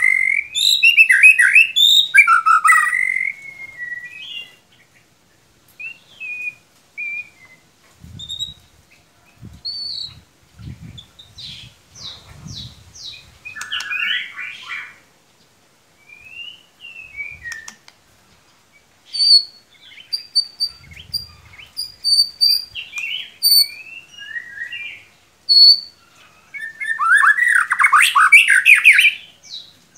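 White-rumped shama (murai batu) singing in varied whistled and chirping phrases broken by pauses, with a run of short high notes in the middle stretch; the phrases are loudest at the start and again near the end.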